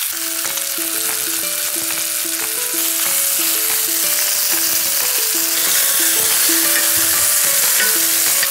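Chicken breasts sizzling steadily in hot olive oil in a skillet as they brown on one side, under light background music with a simple stepping melody.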